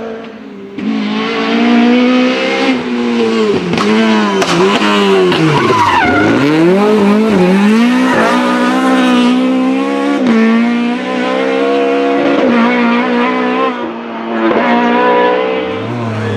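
Rally car engine at high revs. Its pitch swoops up and down several times, dips deepest about six seconds in as the car slows, then climbs again and holds high as it accelerates away.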